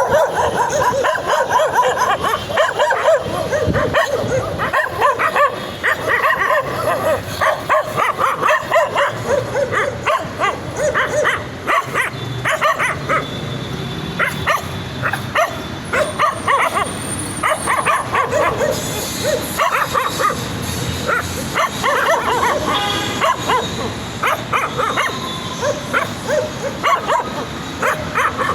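Several puppies barking and yipping excitedly, short high-pitched barks coming thick and fast and overlapping.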